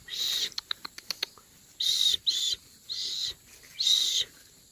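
Nestling birds giving raspy, hissing begging calls, about five calls of roughly half a second each. A quick run of light clicks comes in the first second or so.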